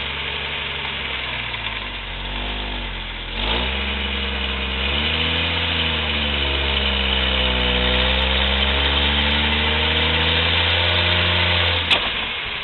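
Rock-crawling Jeep's engine running under load on a rock ledge, its pitch dipping and coming back up about two to three seconds in, then holding fairly steady with slight rises and falls. The engine note cuts out near the end with a sharp click.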